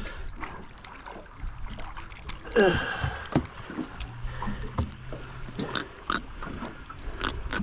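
A giant trevally grunting once, about two and a half seconds in, a short call falling in pitch, amid scattered knocks and clicks as the fish is unhooked in the boat.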